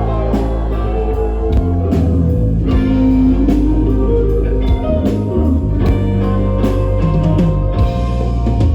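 Rock band playing live in an instrumental passage without vocals, led by electric guitar over bass and drums.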